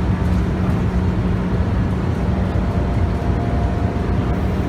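Scania K280UB bus's 9.3-litre five-cylinder diesel engine running at a steady pitch, heard from inside the bus along with road noise.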